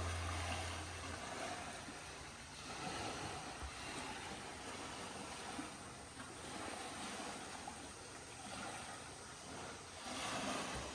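Gentle sea waves washing in and out, faint, swelling and falling back every few seconds.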